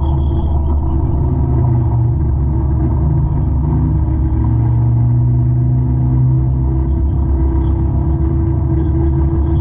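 A 200-horsepower forestry mulcher runs steadily with a deep engine drone. A lower tone swells from about a second and a half in until near seven seconds, then eases back.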